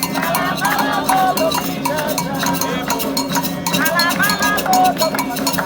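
Candomblé ritual music: atabaque hand drums beating a fast, steady rhythm with a struck agogô bell, and voices singing over them.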